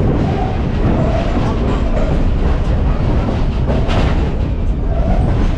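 Passenger train rolling along the track, heard from an open-air car: a steady rumble of wheels on rail, with a sharper click about four seconds in.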